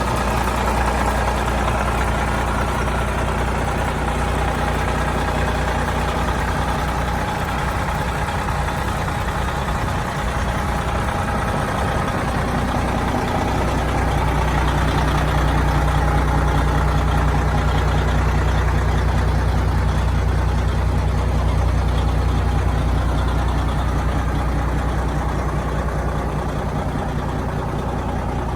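1999 Kenworth W900B truck tractor's diesel engine idling steadily, growing slightly louder about halfway through.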